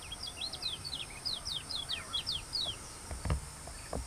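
A small bird singing a quick run of short, falling high notes for about three seconds, over a steady chorus of crickets, with a dull thump about three seconds in.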